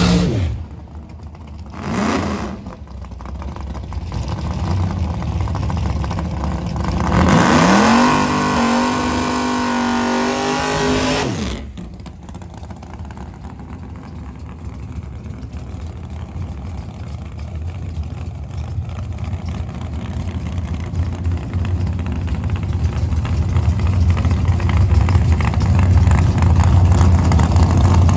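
Drag racing car engines: an engine note rises in pitch and then holds, cutting off abruptly about eleven and a half seconds in, followed by a low engine rumble that grows steadily louder.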